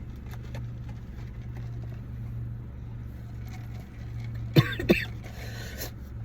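Car engine idling, heard from inside the cabin as a steady low hum. About four and a half seconds in, a person gives two short coughs.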